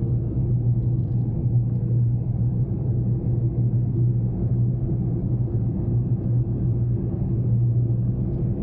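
Daihatsu Mira Cocoa kei car's small three-cylinder engine and road noise, a steady low drone while driving along at an even speed.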